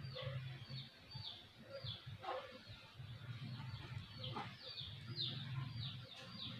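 Faint birds chirping over and over in short high notes that sweep downward, about two a second, over a low hum that comes and goes.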